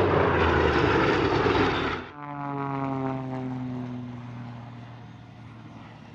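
Aircraft flying past at an airshow: a loud roar that cuts off abruptly about two seconds in. It gives way to a propeller aircraft's engine drone, falling slightly in pitch and fading as the aircraft moves away.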